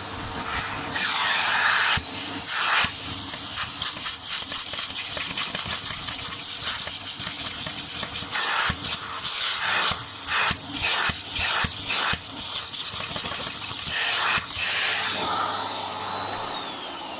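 Vacuum cleaner with a crevice tool running, sucking dust and pet hair out of the crevices of a Roomba home base. The air rush changes as the nozzle is moved about, and the motor winds down near the end.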